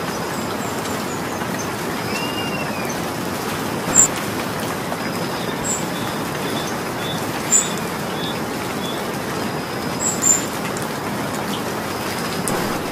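Steady rain falling, an even hiss, with a few sharper taps of drops hitting a surface about four, seven and a half, and ten seconds in.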